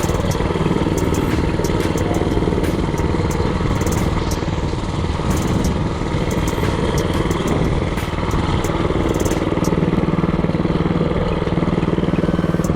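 Predator 224cc single-cylinder four-stroke engine on a mini-bike running under way as it is ridden, its note shifting and settling into a steadier tone about ten seconds in.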